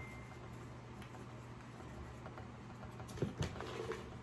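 Quiet room tone with a steady low hum, and a few faint clicks about three seconds in.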